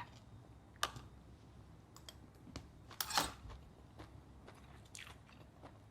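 Faint close-up eating sounds: a few scattered soft clicks and smacks while chewing grilled pork neck and rice, the loudest about three seconds in.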